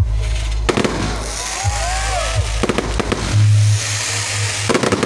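Fireworks going off: sharp bangs at uneven intervals with crackling in between, and a few short rising-and-falling whistles near the middle.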